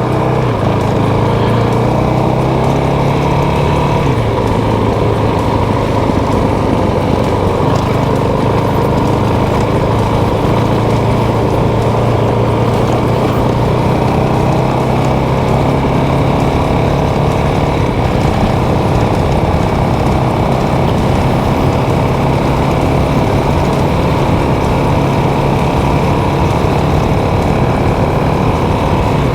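Motorcycle engine running at a fairly even speed while riding, over a steady rush of noise.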